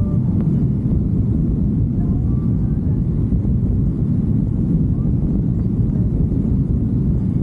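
Steady low rumble of wind rush and engine noise on a moving motorcycle.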